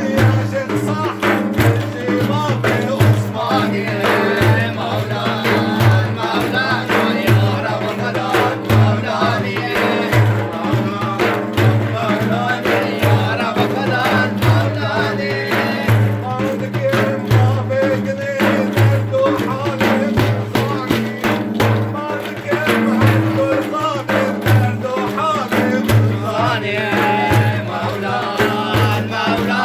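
Sufi devotional praise song (madih) with hand drums beating a steady rhythm under a steady low drone, and a voice chanting over it.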